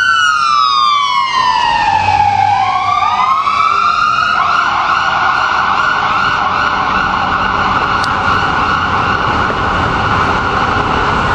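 Emergency vehicle siren: a wail falls steadily in pitch over the first three seconds, then switches to a fast warbling yelp that holds steady. A brief tick comes about eight seconds in.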